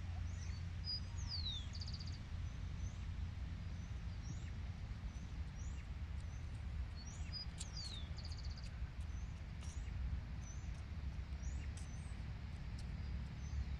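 A songbird singing: a high whistled note sliding down, followed at once by a short rapid trill, heard twice about six seconds apart, with a few short chirps between, over a steady low rumble.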